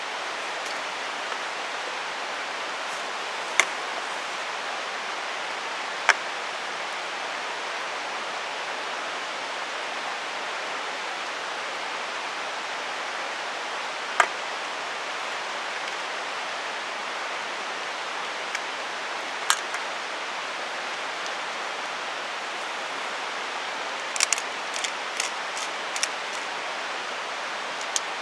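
Steady rushing of a mountain stream, with a few sharp isolated clicks or snaps above it and a quick cluster of them about 24 seconds in.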